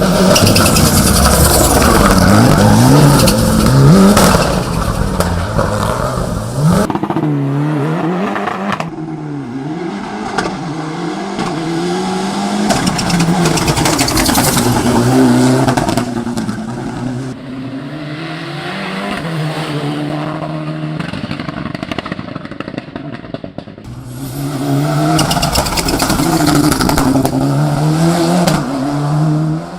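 Lancer Evolution VI hill-climb car's turbocharged engine at full throttle, its pitch rising and dropping again and again as it revs and shifts. The sound is loud for the first several seconds, quieter through the middle, and loud again about 24 seconds in.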